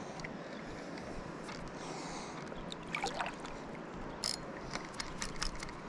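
River water moving and sloshing around a wader, with a steady rush of current and several short sharp splashes and knocks between about three and five and a half seconds in.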